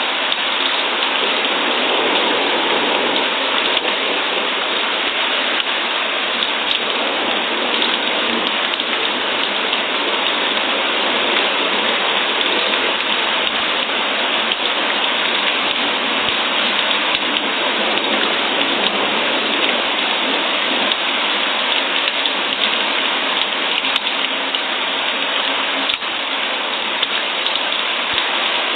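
Steady rain falling, an even, unbroken patter of drops on a surface.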